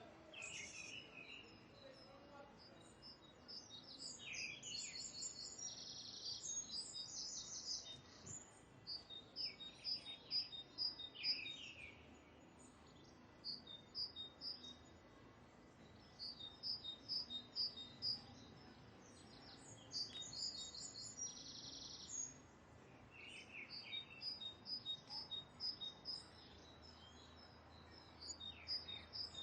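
Birds calling: runs of short, high chirps repeated quickly, coming in groups every few seconds over a faint steady background noise.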